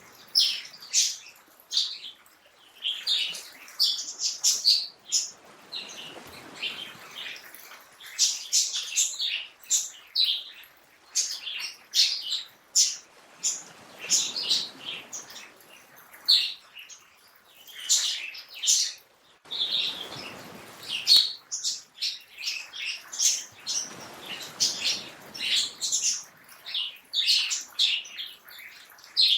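Birds chirping and singing, many short overlapping calls, with a soft rushing background noise that swells and fades every few seconds.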